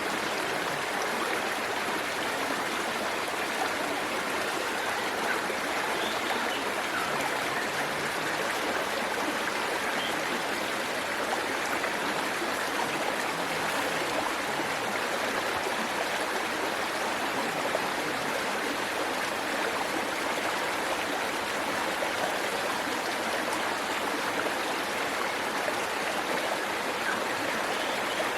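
Water rushing steadily over a small waterfall and down a stream, an even splashing rush with no breaks.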